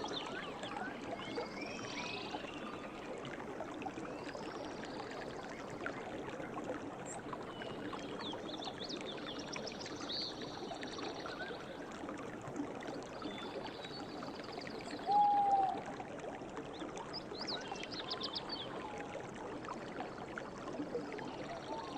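River water running steadily, with small birds chirping and trilling high over it. About fifteen seconds in, a brief louder, lower-pitched call stands out.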